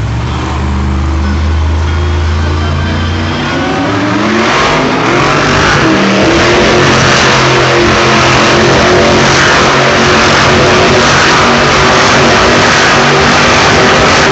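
Monster truck engine running low at first, then revving hard about four seconds in, its pitch rising and falling, with a loud rushing noise over it.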